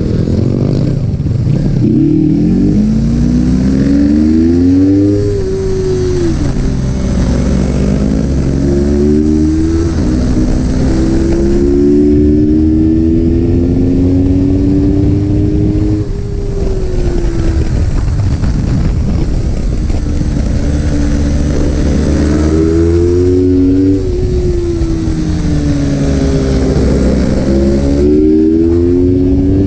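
Yamaha YZF-R3 parallel-twin motorcycle engine pulling hard on track. The pitch climbs through the revs, drops back at each gear change and climbs again, with one long slow pull in the middle.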